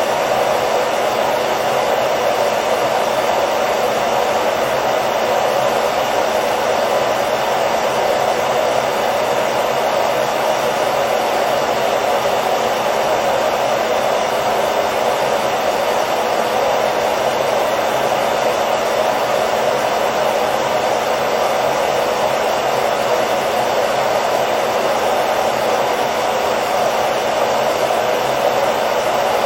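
Hair dryer running steadily, a constant whooshing blow with a faint hum, played as continuous white noise for lulling a baby to sleep.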